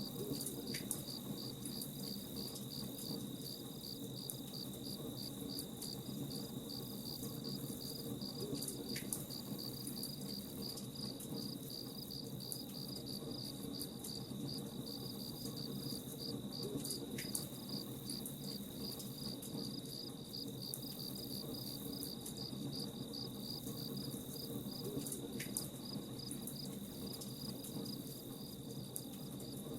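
Crickets chirping in an even rhythm of a few pulses a second over a steady high insect trill, with faint scattered crackles of a campfire and a low steady hiss underneath.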